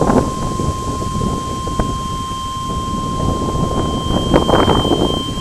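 Gusty wind buffeting the microphone, with louder gusts near the end. A steady high-pitched tone sounds behind it and stops just after the end.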